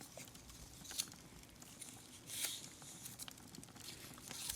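Faint, scattered crackles of a fireplace fire with soft rustling from a handmade star ornament being handled, and one brief breathy hiss about two and a half seconds in.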